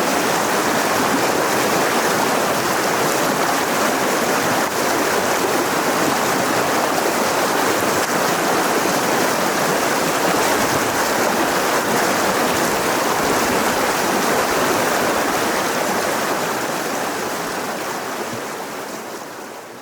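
Mountain river rushing over rocks, a steady full rush of flowing water that fades out over the last few seconds.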